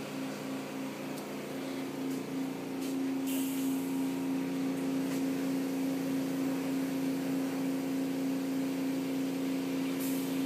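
Steady mechanical hum of automatic car wash machinery, heard from inside the car. It pulses for the first couple of seconds, then holds steady, with a short hiss about three seconds in.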